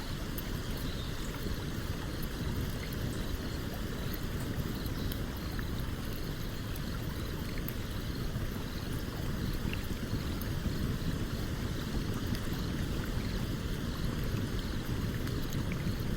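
Steady rushing of a stream with light, scattered crackles from a campfire burning.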